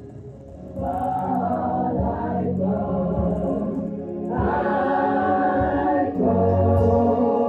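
Choir singing a slow gospel song over sustained organ or keyboard chords, the voices entering about a second in and swelling again a few seconds later.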